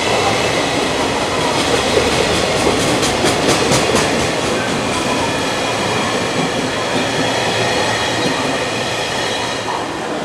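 Japanese freight train running by with a steady rumble and several steady high tones. A quick run of wheel clicks over rail joints comes about three seconds in.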